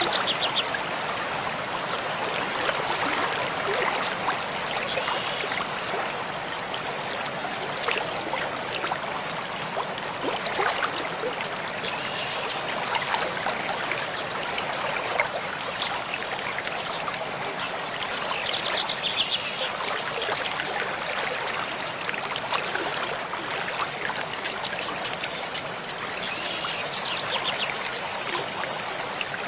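Mountain stream flowing steadily with a constant splashing rush of water. A bird sings short high phrases over it a few times, most clearly about two-thirds of the way through and near the end.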